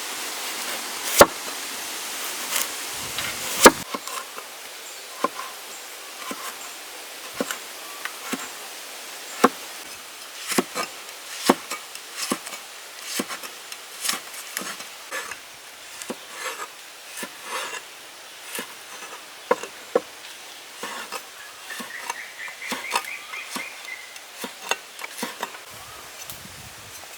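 A series of irregular sharp clicks and knocks, one or two a second, two louder knocks in the first few seconds, over a faint steady hiss, with a brief high chirping about three-quarters of the way through.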